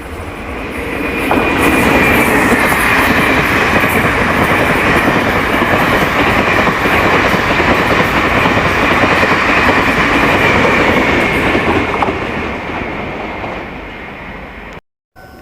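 A train passing through the station: a loud, steady rumble that builds over the first two seconds, holds for about ten seconds, then fades away. The sound cuts off abruptly near the end.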